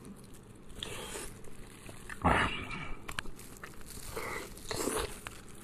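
Close-miked mukbang eating: a person biting and chewing food in several short bursts with small mouth clicks, the loudest a little over two seconds in.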